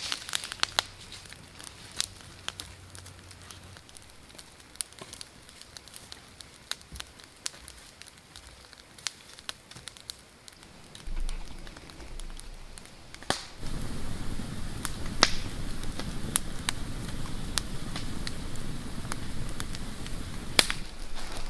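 Wood campfire of sticks and bark crackling, with sharp pops and snaps scattered through. About two-thirds of the way in, a louder low rumble comes in and stays.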